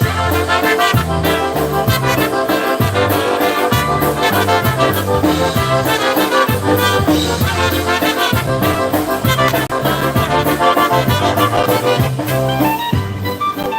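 Live polka band playing a polka, with trumpet and trombone over a steady beat and a bass line moving in steps.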